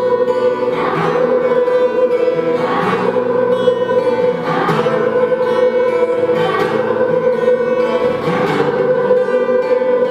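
A group of children singing together, holding a sustained note, with a guitar accompaniment that accents about every two seconds.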